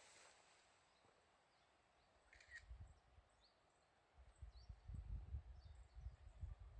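Faint, irregular low rumbling of wind buffeting the microphone, in gusts about two and a half seconds in and again through the second half, with a few faint, short, high bird chirps.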